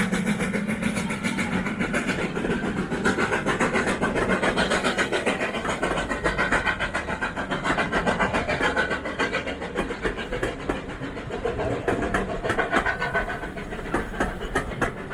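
Steam-hauled passenger train running past, with its wheels clattering over the rails in a dense run of clicks.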